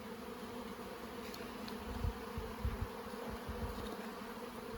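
Honeybees buzzing around an opened hive, a steady drone, with a few soft low bumps between about two and four seconds in.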